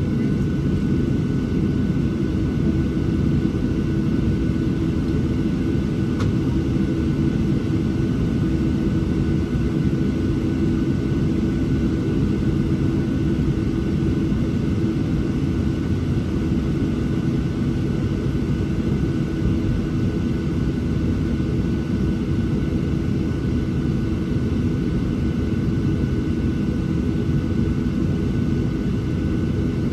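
Cabin noise inside a Boeing 737-700 on the ground before takeoff: the CFM56-7B engines at idle and the cabin air system make a steady low rumble, with a steady hum and a faint high whine over it.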